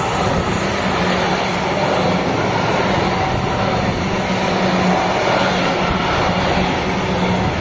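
Train hauled by a Siemens Vectron locomotive passing close by: a loud, steady rumble of wheels on the rails with a constant low hum.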